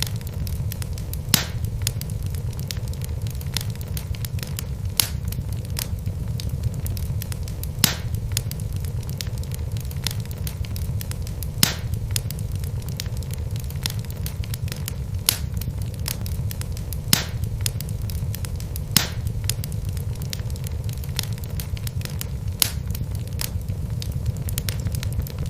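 Wood logs burning in a fireplace: a steady low rumble from the flames, with constant fine crackling and a sharper, louder pop every two to four seconds.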